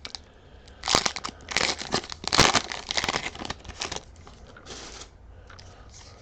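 Foil wrapper of a Pokémon TCG booster pack crinkling and being torn open, in a run of crackly rustles, the loudest about two and a half seconds in.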